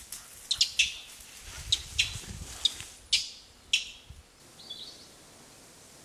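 A bird in the trees giving short, sharp, high-pitched calls, about eight of them at irregular spacing. The calls stop about four seconds in, leaving a faint steady hiss.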